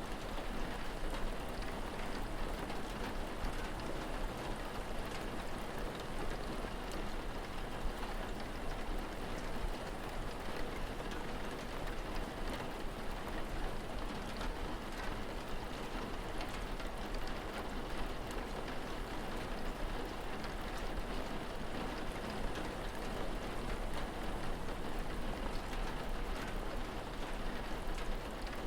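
Steady rain falling, with scattered drop ticks over an even hiss.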